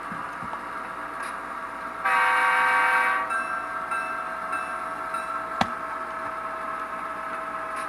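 Sound decoder (SoundTraxx Tsunami2) in an HO-scale GP38-2 model locomotive playing a diesel engine running steadily through its small onboard speaker, with a single horn blast of about a second starting about two seconds in. A sharp click sounds a little past the middle.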